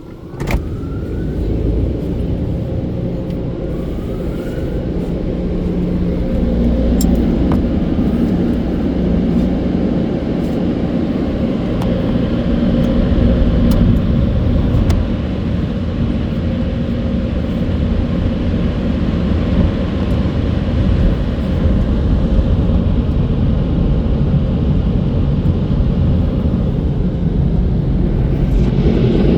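Touchless car wash dryer blowers switching on with a click and a sudden jump in loudness, then running with a steady, loud low roar.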